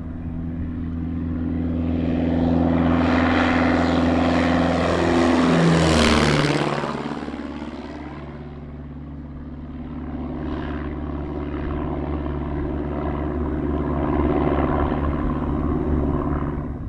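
Light propeller airplane at full power sweeping close past, getting louder to a peak about six seconds in, where its engine pitch drops sharply as it goes by. Then a second aircraft engine builds up again under power.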